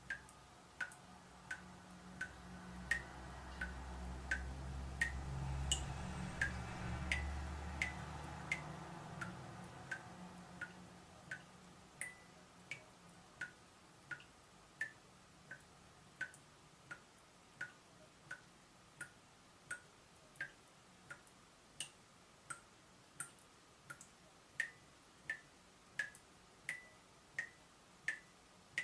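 Water dripping from a leaking tap in a steady rhythm, about three drips every two seconds, each a short sharp plink. A low rumble swells up a couple of seconds in and fades away again by about the middle.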